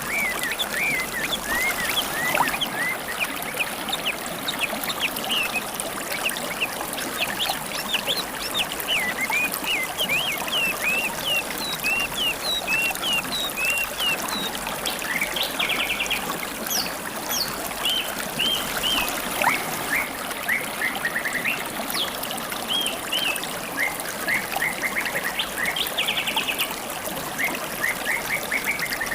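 A shallow river trickling and babbling steadily, with wild songbirds calling over it: many short chirps and a few rapid trills.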